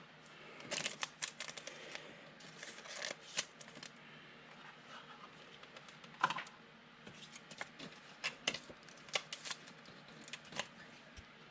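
Trading cards being handled: scattered light clicks and brief rustles at an irregular pace, faint throughout.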